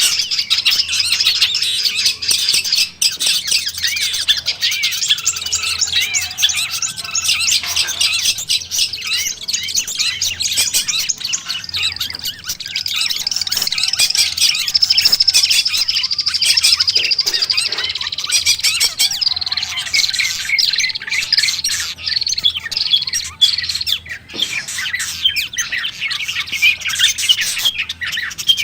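Long-tailed shrike (cendet) singing a fast, unbroken stream of high chirps and chattering notes.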